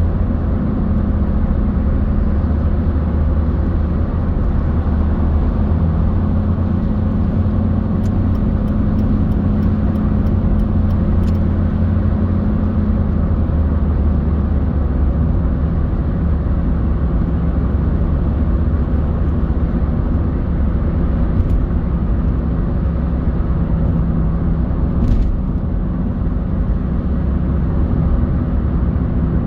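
Car driving in traffic: steady engine and tyre rumble. A short run of faint, evenly spaced ticks comes about eight seconds in.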